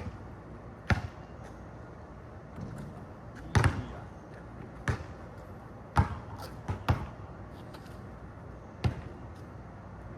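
A basketball bouncing, with single thuds at irregular gaps of about one to two seconds and a short echo after each.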